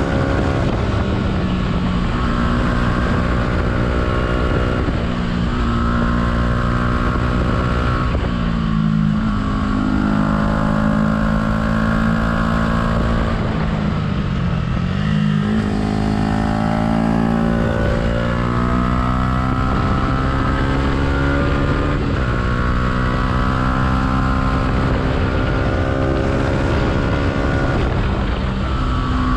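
Yamaha YZF-R125's single-cylinder four-stroke engine through a Black Widow exhaust run without its dB-killer, under way on the road. The engine note climbs and drops with the throttle and gear changes, falling steeply and then rising again about halfway through.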